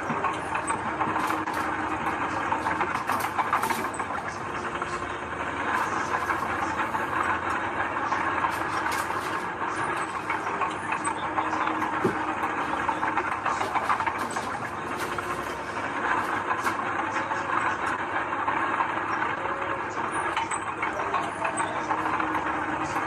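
Diesel engine of heavy earthmoving machinery running steadily under work, with scattered metallic clanks and knocks throughout.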